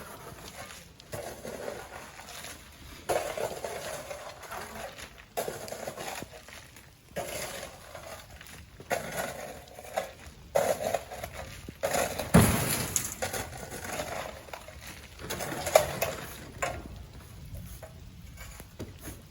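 Sand being loaded by hand into a truck: a rush of sand landing every second or two, with scraping and grit, and one heavier thud a little past the middle.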